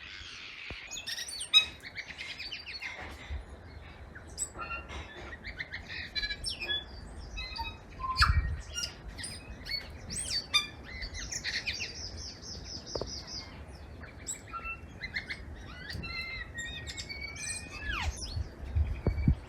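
Several birds chirping and whistling, with short notes and pitch glides, and a fast trill of repeated high notes partway through.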